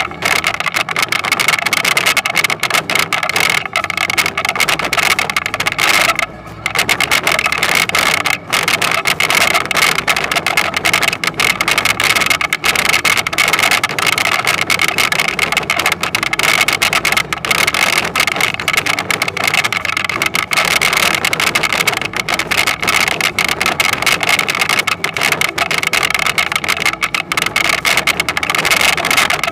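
Toyonoki potato harvesting machine running: a steady engine with a continuous mechanical clatter and a steady high whine, dipping briefly about six seconds in.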